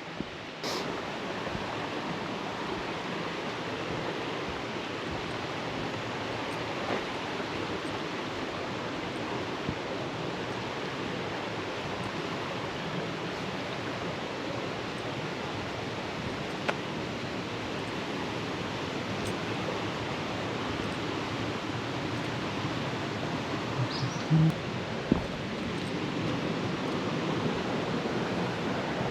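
Steady rushing of rain-swollen falling water from a nearby waterfall or stream, an even roar growing slightly louder near the end. A few faint clicks and a short low tone break in about 24 seconds in.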